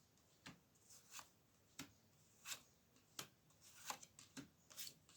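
Faint, irregular rustles and soft taps of tarot cards being handled.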